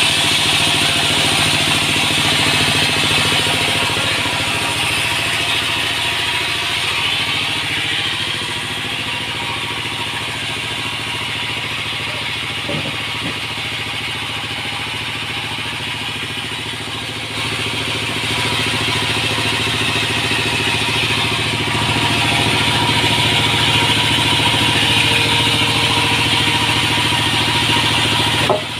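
Sawmill machinery running steadily, a motor's low hum under a loud high hiss that eases off in the middle and swells again later, ending with a brief sharp sound.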